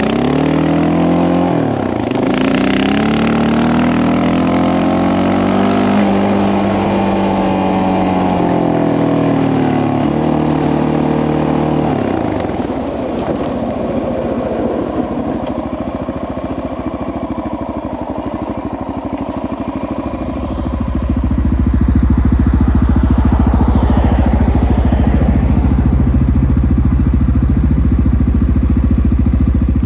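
Honda XR650L's single-cylinder four-stroke engine under way on a trail ride, its pitch rising and falling as it revs up and eases off. About two-thirds of the way through, a heavy low rumble comes in and stays louder.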